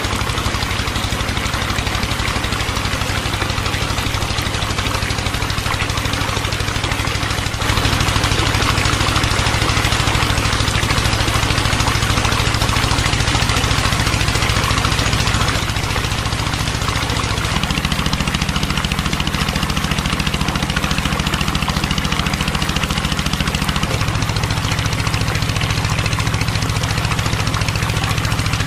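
A motor running steadily with an engine-like hum. It gets louder about eight seconds in, and its pitch shifts in steps later on.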